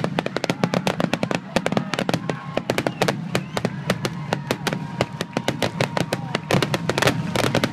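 Aerial fireworks finale: a dense, continuous barrage of shell bursts going off several times a second, sharp bangs overlapping with crackle.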